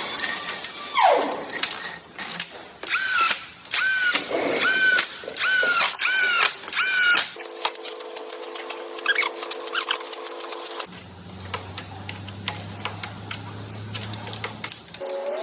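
Power tools running in short bursts, each a brief rising-and-falling whine about twice a second. The sound then changes suddenly, once to a steady machine hum and later to a lower hum.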